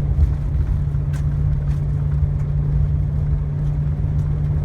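Car driving: a steady low rumble of engine and road noise with a constant hum.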